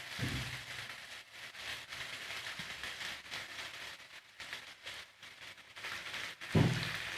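Chicken pieces and spice masala sizzling in butter in a hot pan, a steady crackling hiss.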